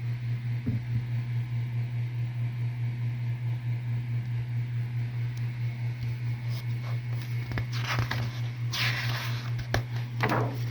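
A steady, gently pulsing low hum throughout. In the second half come light handling clicks and a short burst of rustling as a paper calendar page is turned over.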